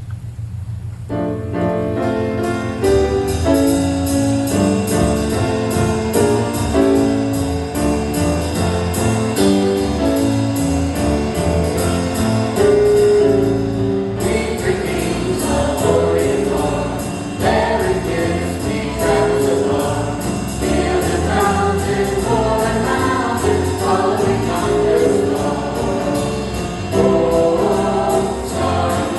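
Church choir singing a jazz-style Christmas cantata number with instrumental accompaniment; the full sound comes in about a second in over a low bass, and grows fuller about halfway through.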